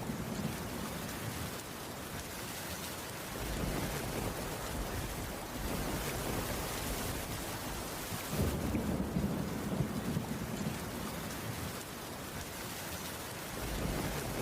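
Heavy rain falling steadily on a wooden cabin roof, with a low rumble of distant thunder swelling up about eight seconds in and again near the end.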